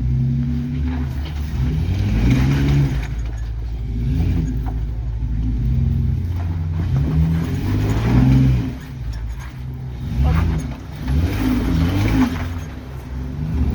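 Jeep engine revving up and falling back in repeated bursts, about five times, as it works under load to climb an off-road obstacle.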